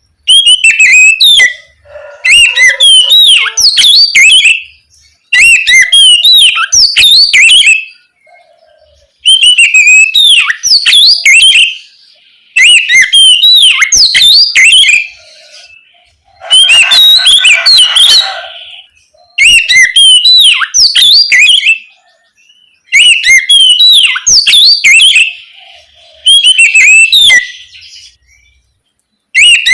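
Oriental magpie-robin singing its loud, open song: phrases of rapid sweeping whistles and trills, in bursts of two to three seconds with short pauses between. One phrase a little past the middle has a harsher, rasping edge.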